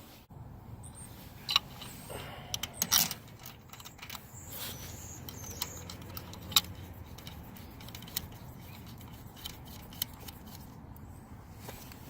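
Scattered light metallic clicks and clinks of hand tools and small metal parts as the bolt holding a snowplow's hydraulic filter bracket is refitted, with a few louder clattering clusters in the first three seconds.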